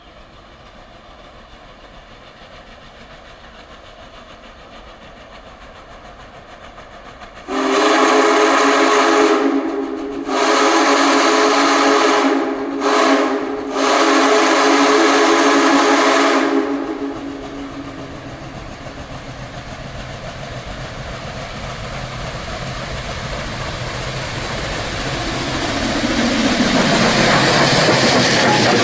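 Union Pacific Big Boy No. 4014 steam locomotive approaching, its chime whistle sounding two long blasts, two quick short toots and a final long blast, the grade-crossing signal. After the whistle the locomotive's running noise grows steadily louder as it draws near.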